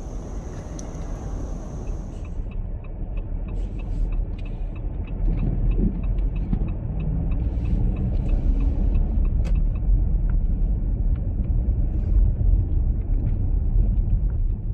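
Steady low rumble of a road vehicle on the move, growing louder about five seconds in.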